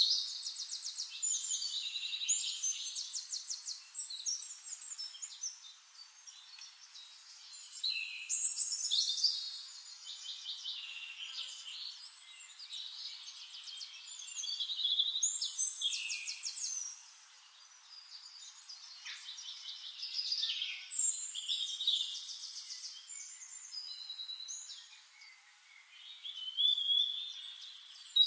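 Songbirds singing, several overlapping high-pitched songs of rapid trills and chirps that swell into louder bursts every several seconds.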